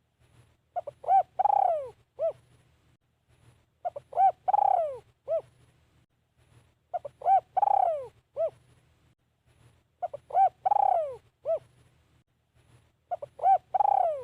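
Spotted dove cooing, repeating the same phrase about every three seconds: a few short coos, a long coo that falls in pitch, then a short closing coo. A faint low hum runs underneath.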